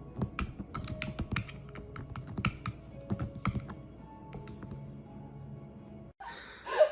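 Quick, irregular clicks and taps over soft background music with held notes. It cuts off abruptly about six seconds in, and a short louder sound follows just before the end.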